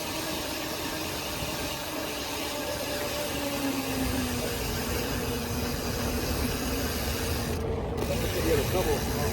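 BMX bike rolling along a dirt trail: steady rubbing and rattling from the tyres and drivetrain, with a low rumble growing about four seconds in.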